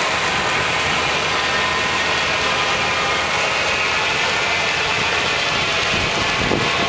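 A milling machine running steadily: a continuous mechanical drone with many steady tones at an even level.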